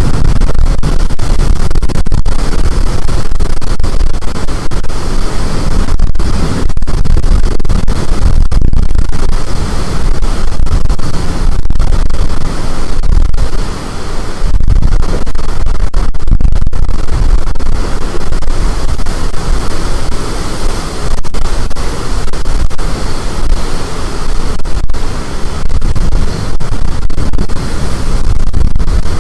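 High storm wind blasting the microphone: a loud, steady rushing noise heaviest in the low end, with a few brief lulls.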